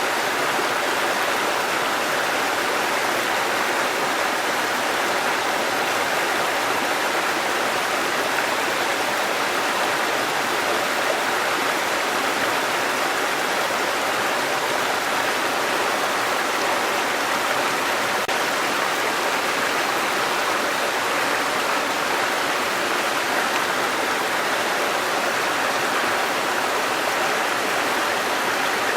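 Waterfall and running water, a steady even rush with no breaks.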